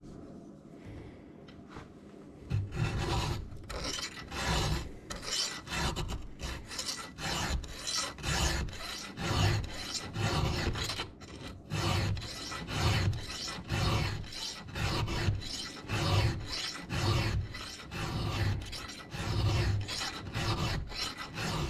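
Round chainsaw file rasping across the cutters of a chainsaw chain in steady back-and-forth strokes, about one a second, as the chain's chisel cutters are sharpened by hand.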